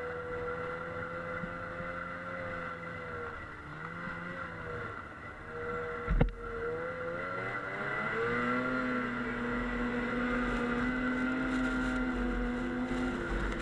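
Snowmobile engine running under throttle, its pitch dipping and rising as speed changes, then holding steady in the second half; a short loud thump about six seconds in.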